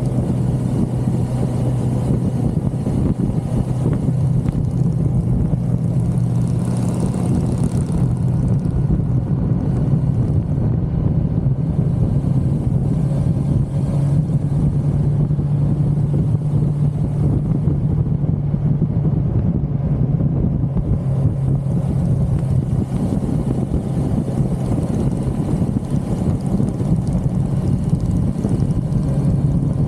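1982 Suzuki GS550L's air-cooled inline-four engine running steadily at cruising speed on the road, its note wavering only slightly.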